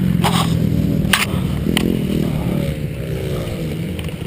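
Motocross bike engines running, a steady engine note that then drops in pitch about two-thirds of the way in, with a few sharp clicks in the first two seconds.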